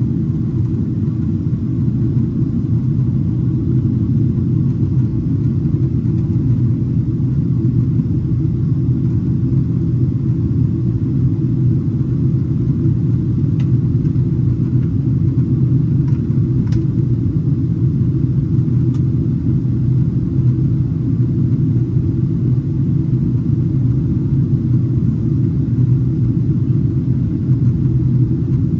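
Steady low rumble of cabin noise inside a Boeing 777-300ER, with a few faint ticks about halfway through.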